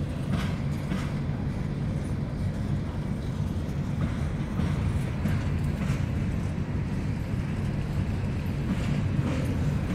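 Empty coal hopper cars rolling slowly past on the rails: a steady low rumble with a few faint clicks.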